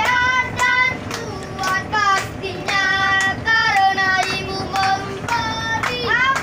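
Child buskers singing together in high voices.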